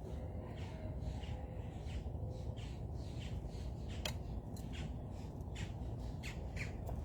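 Birds at a feeder giving short harsh calls, one after another about every half second, over a steady low background rumble. There is a single sharp click about four seconds in.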